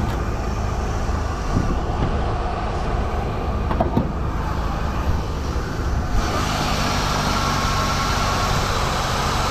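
1984 Chevy El Camino engine idling steadily, sounding strong. There are a couple of light knocks in the first few seconds, and a louder hissing rush joins the running sound about six seconds in.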